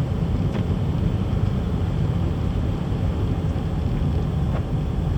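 Car driving on a slushy, snow-covered road: a steady low rumble of engine and tyres, with a few faint ticks.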